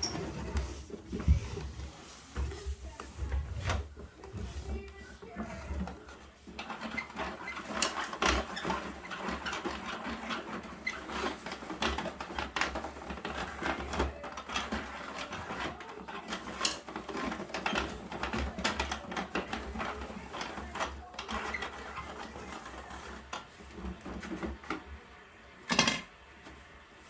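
Bruder plastic toy garbage truck being handled and worked, with a fast, continuous plastic rattling and clicking of its mechanism and wheels, broken by a few knocks and a sharp click near the end.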